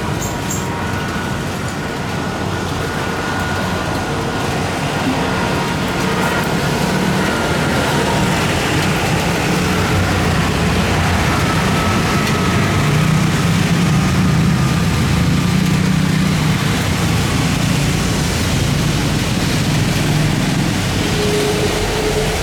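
Jet airliner engines heard on approach or landing: a steady low noise with a faint high whine that slowly drops in pitch, swelling toward the middle and easing near the end.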